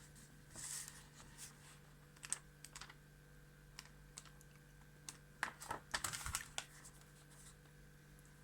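Light clicks and taps, bunched in two short flurries, one about two seconds in and one near six seconds, over a faint steady hum.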